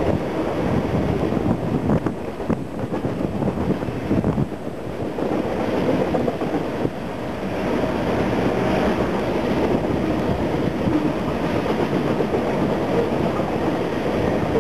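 A freight train of refrigerated boxcars rolling past on the rails: a steady rumble and rattle of the cars, with quick wheel clicks running through it.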